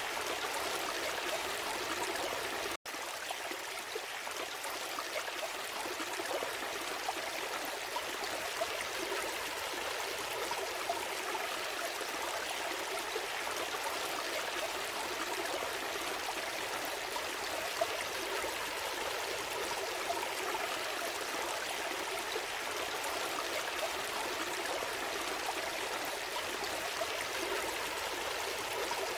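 Gentle stream flowing: a steady, even rush and trickle of water, with a momentary dropout about three seconds in.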